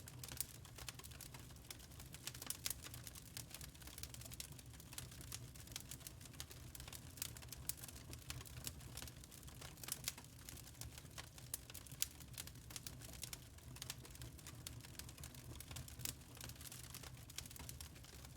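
Wood fire crackling in a fireplace: many small irregular pops and snaps, a few louder ones, over a faint low hum.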